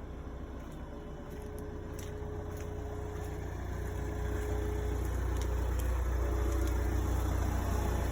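Kia Ceed 1.6 CRDi diesel engine idling, growing gradually louder, with a thin steady humming whine that fades out about halfway and comes back briefly near the end. This humming is the sign of a failing fuel pump.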